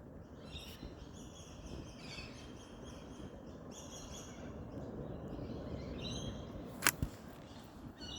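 Birds chirping in several short runs of high notes over a low, steady outdoor background. One sharp click comes a little over a second before the end and is the loudest sound.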